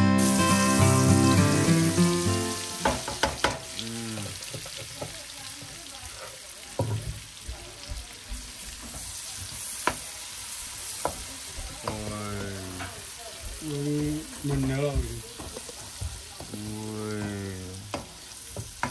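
Eggs frying in a pan: a steady sizzle with scattered clicks and scrapes of a utensil stirring. Music plays over the first two seconds or so, then stops.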